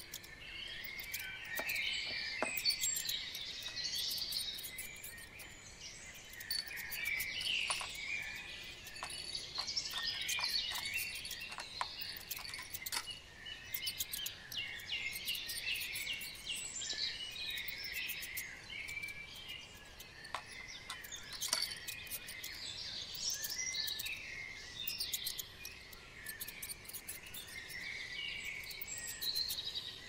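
Outdoor birdsong: several small birds singing and chirping at once in overlapping high calls and trills, with many short sharp ticks scattered through.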